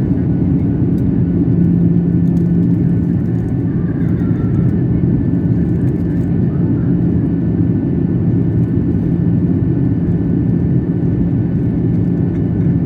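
Steady low rumble of a passenger airliner's engines and airflow, heard from inside the cabin during the approach to landing, with a steady hum beneath.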